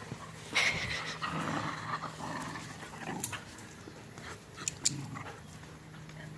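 Two dogs play-wrestling, growling, loudest in the first couple of seconds, with a few sharp clicks later on.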